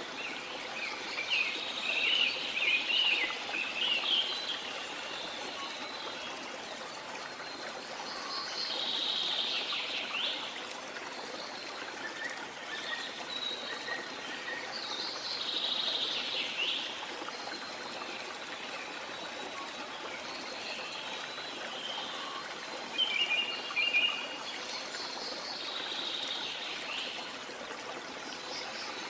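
Steady rush of a waterfall or stream, with birds calling in short bursts every few seconds over it, the loudest chirping in the first few seconds and again about three quarters of the way through.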